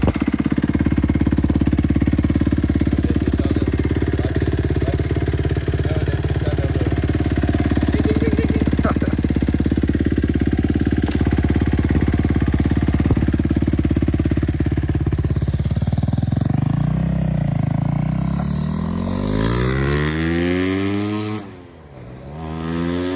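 Kawasaki 250 dirt bike engine, just kick-started, running loud and steady. About two-thirds of the way through it revs in rising and falling sweeps as the bike pulls away, drops off briefly near the end, then rises again.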